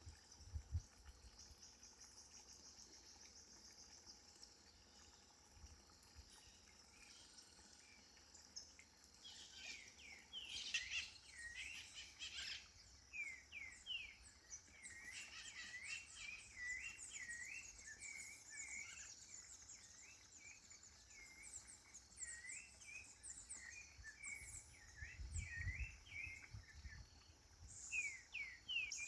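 Birds calling with many short, repeated chirps, starting about a third of the way in, over a steady, high insect trill. A few low rumbles come near the end.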